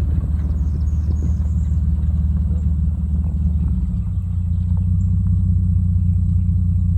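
A 1995 Mercedes-Benz E320, its 3.2-litre straight-six, running as the car drives along, giving a steady low rumble that shifts a little about four seconds in.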